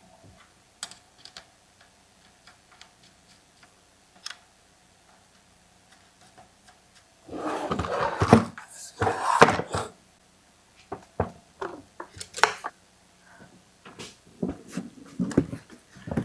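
Scattered clicks and knocks of parts and tools being handled, with a longer stretch of rustling and clattering about seven to ten seconds in.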